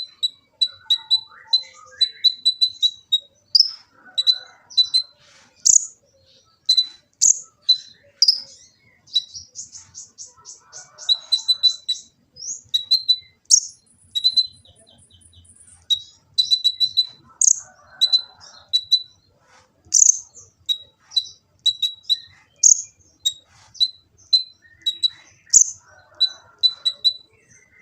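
Kolibri ninja sunbird singing its full, varied song: quick high chirps repeated in fast strings, sharp rising notes mixed in, a fast rattling run and a short, very high trill about halfway through.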